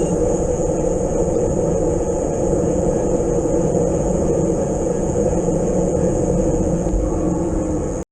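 Steady wind and road rumble on the camera microphone while riding a bike, cutting off abruptly just before the end.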